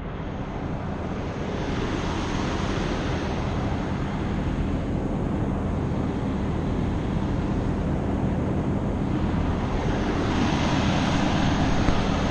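Semi truck's diesel engine idling steadily, a loud low rumble.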